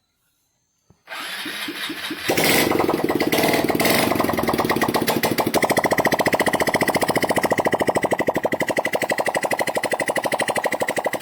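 Freshly rebuilt Honda Dream Neo 110 single-cylinder four-stroke motorcycle engine cranking for about a second, catching, revving briefly, then settling into a steady even idle: its first start after the rebuild, run to check that oil circulates.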